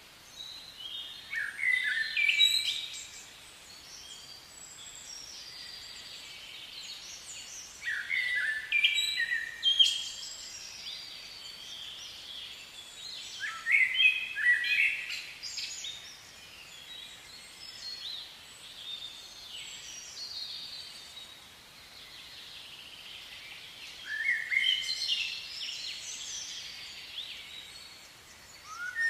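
A songbird singing short phrases of quick, varied notes, four times with pauses of several seconds between, over a steady outdoor hiss.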